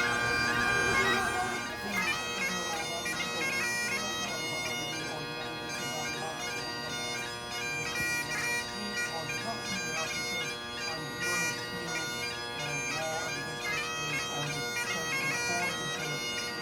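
Highland bagpipes playing: a steady drone under a chanter melody of held and ornamented notes.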